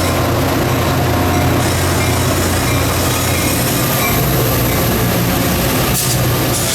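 Caltrain diesel-hauled passenger train running through the station: a steady, loud rumble of the locomotive engine's low hum and the wheels and cars on the rails, with a brief sharp click near the end.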